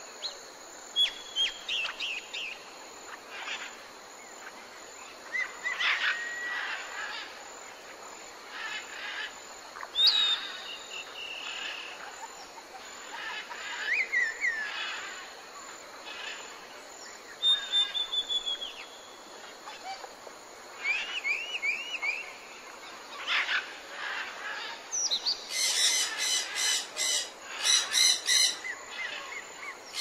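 Several birds calling over a faint steady hiss of forest ambience: short whistles and gliding chirps come one after another. Near the end a louder run of rapid repeated calls breaks in.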